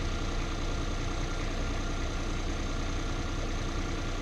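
An engine idling steadily, with an unchanging low hum.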